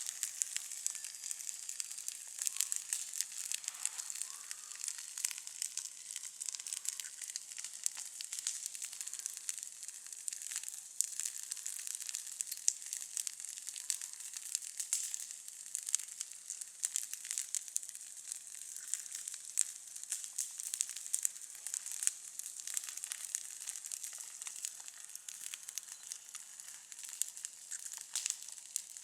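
Campfire burning: dense, irregular crackling and popping over a steady hiss, with no low rumble.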